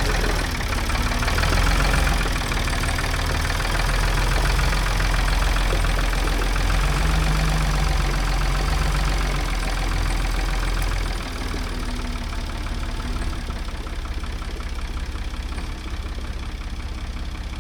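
Ford 555 backhoe's freshly rebuilt diesel engine running steadily; it drops a little in loudness about eleven seconds in.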